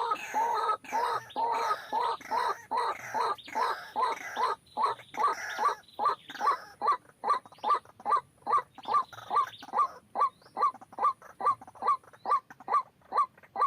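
White-breasted waterhen calling: a long series of short, rising notes, busy and overlapping at first, then settling into an even beat of about three calls a second.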